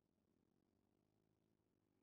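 Near silence: only a very faint low hum.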